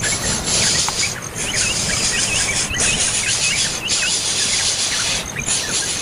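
A bird chirping in quick short calls, about two or three a second, over a loud, steady hiss like insects buzzing that breaks off briefly a few times.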